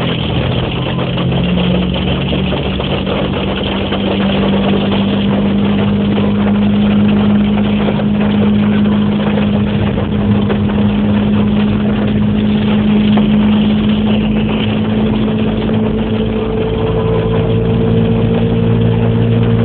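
Hail falling hard as a dense, steady clatter of ice, over a steady low motor hum.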